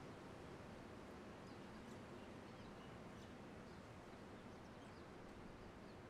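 Faint outdoor ambience: a steady low hiss of open air, with birds giving several short, high chirps now and then.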